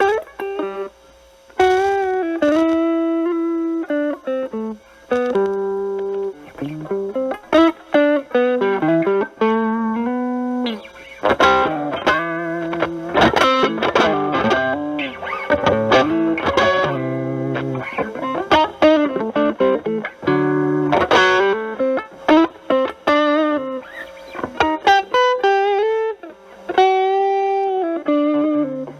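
Fender Stratocaster with single-coil pickups through a Proco RAT2 distortion stacked with an Ibanez TS9 Tube Screamer into a Marshall Valvestate amp, with the RAT's distortion at 12 o'clock and the guitar's volume knob rolled back to clean up the drive. The guitar plays improvised single-note blues lead phrases with string bends and vibrato, broken by short pauses.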